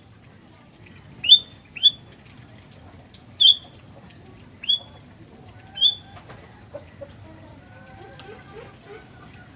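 Sooty-headed bulbul calling: five short, sharp, high notes in the first six seconds, irregularly spaced, then only faint, quieter twittering.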